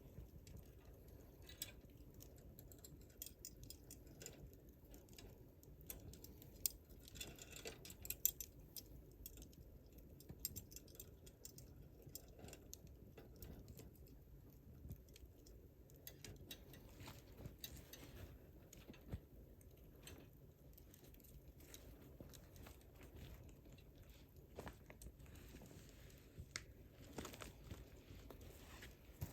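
Wood campfire burning with faint, irregular crackles and small pops, a couple of sharper snaps about seven and eight seconds in.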